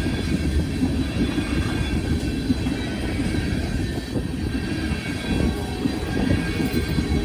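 Freight train of ethanol tank cars rolling steadily past, with a dense low rumble of wheels on rail and a faint, steady high wheel squeal.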